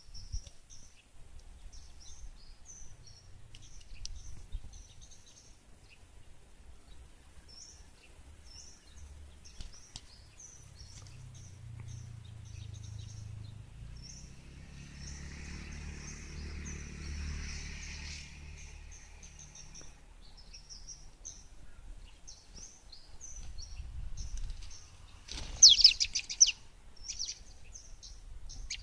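Prenjak lumut (olive-backed tailorbird) chirping, repeating short high notes over and over, with one much louder call burst near the end. A low rumble swells and fades in the middle.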